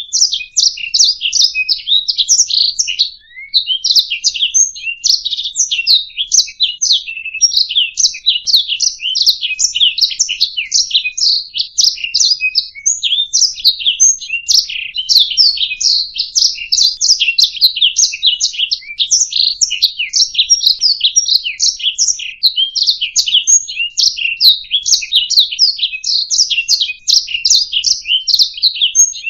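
Domestic canary singing a continuous, rapid song of chirps and trills, with only a brief pause about three seconds in.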